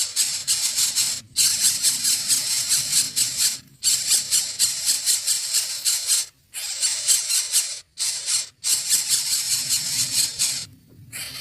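Nestling birds begging: loud, harsh, rasping chatter in bursts of a second or two, broken by short gaps, stopping near the end.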